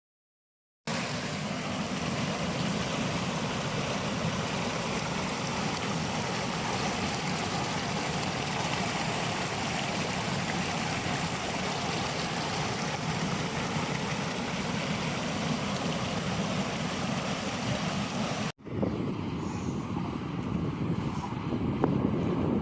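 Steady rushing of flowing water, starting abruptly after a second of silence. About eighteen seconds in it cuts off sharply and gives way to a duller, deeper rush.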